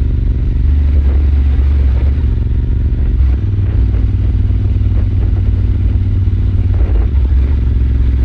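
Royal Enfield Super Meteor 650's 648 cc parallel-twin engine running steadily while the motorcycle cruises, with a deep exhaust note. The engine note changes briefly about three seconds in and again about seven seconds in.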